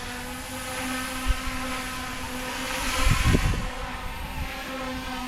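GooSky E2 Huey UH-1Y Venom electric RC helicopter flying fast in idle-up 1 (3D mode): the steady whine of its motor and spinning rotors. Wind buffets the microphone, most strongly about three seconds in.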